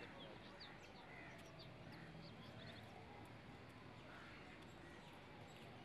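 Near silence: faint outdoor background with scattered small bird chirps.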